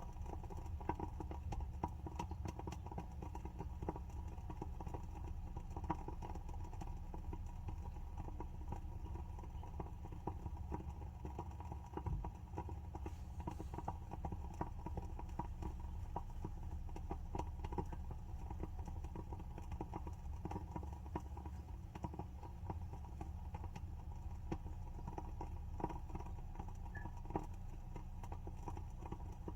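WoodWick wooden-wick candle burning with an irregular crackle of many small pops, over a steady low hum.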